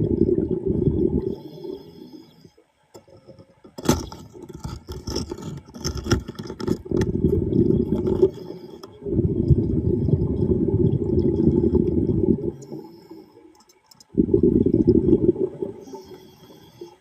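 Underwater diver's breath bubbles rushing out in bursts of two to three seconds, twice, with clicks and scraping in between.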